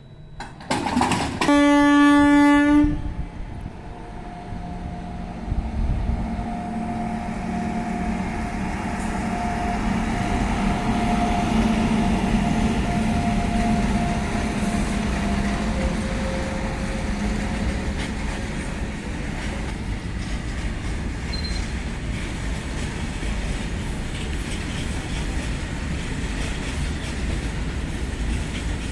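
A WAG-9 electric locomotive sounds its horn once for about a second and a half, then it and its loaded freight wagons pass with a steady rumble and wheel clatter over the rail joints.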